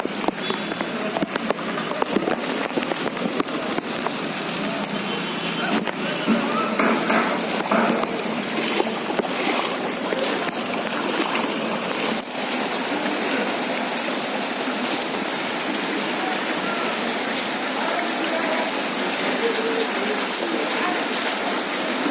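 Steady hiss of water, rain or running floodwater, with some crackly ticks and a few brief louder patches in the first half.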